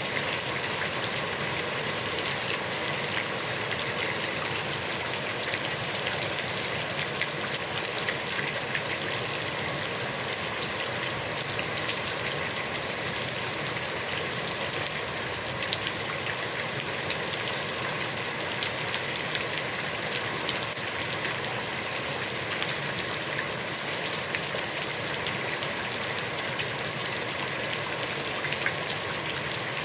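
Heavy rain falling steadily onto a pond's water surface, a dense even hiss spangled with countless drop patters.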